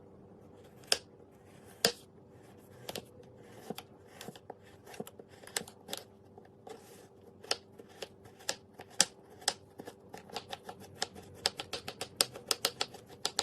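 A series of sharp clicks, a few seconds apart at first, then coming faster and closer together toward the end, over a faint steady hum.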